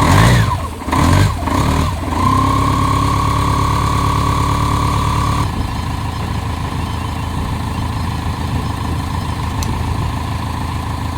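Motorcycle engine blipped twice, revving up and dropping back, then settling into a steady idle. About five and a half seconds in the idle note gives way to a more even, hissier engine sound to the end.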